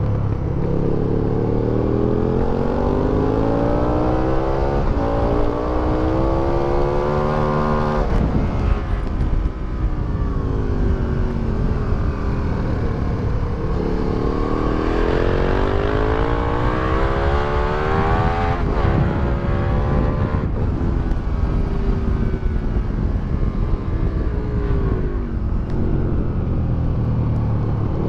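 2008 Aprilia Tuono 1000R's V-twin engine through an Akrapovic exhaust, ridden hard on track. Its note climbs long and steadily under acceleration, breaks briefly at gear changes and falls away under braking, twice over, over a steady low rush of wind.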